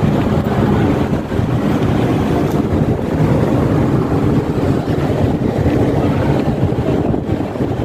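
Loud, steady rumble aboard the passenger ship KM Kelud, the ship's drone mixed with wind buffeting the microphone.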